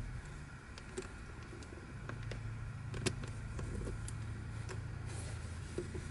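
Plastic pieces of a twisty puzzle clicking and tapping as they are handled, with a few sharp clicks over a steady low hum. The sharpest click comes about three seconds in.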